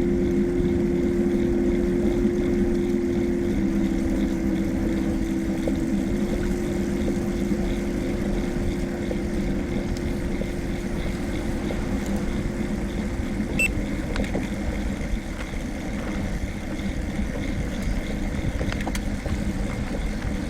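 Steady rumble of wind and road noise while riding, under a steady engine drone from a vehicle that holds its pitch, shifts slightly twice early on, and fades out about two-thirds of the way through.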